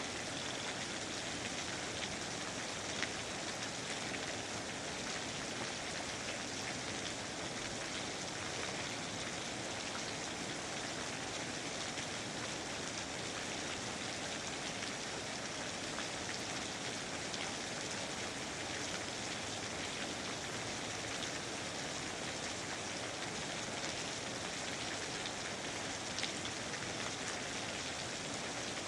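Steady rain falling, an even hiss with faint scattered drop ticks. Nothing stands out.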